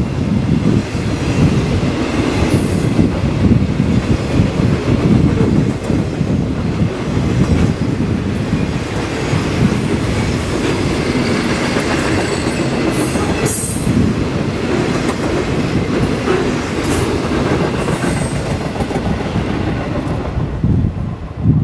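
Circus train cars rolling past at close range: a steady, loud rumble of steel wheels on rail with clickety-clack over the joints. There is a brief high screech about thirteen seconds in, and the sound thins out near the end as the train goes by.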